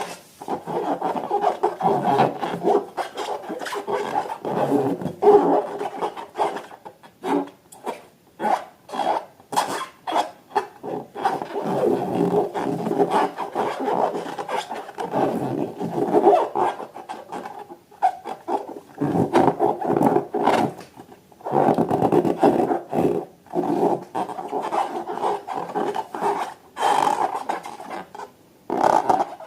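Rubber balloons being rubbed and squeezed by hand, a rough squeaking and groaning in uneven stretches with many small clicks, pausing briefly a few times.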